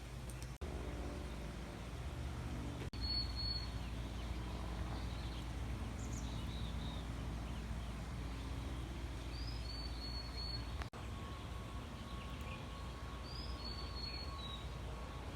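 Steady low outdoor rumble with a small bird chirping high, short notes in three brief groups of two or three.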